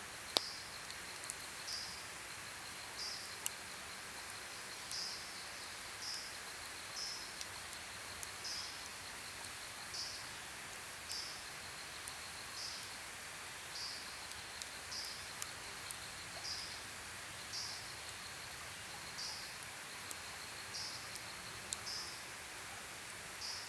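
Campfire crackling, with a few sharp pops, over a steady hiss. An insect keeps up a fast, even trill throughout, and a short high chirp repeats about once a second.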